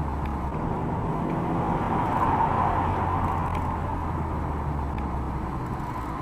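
Car driving: steady engine and road noise that swells slightly a couple of seconds in.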